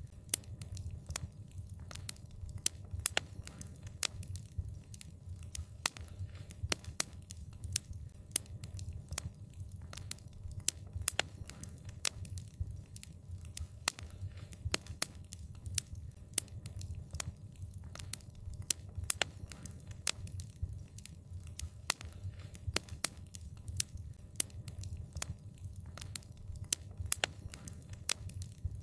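Wood fire crackling: frequent sharp pops and snaps, several a second and irregular, over a low steady rumble of the burning.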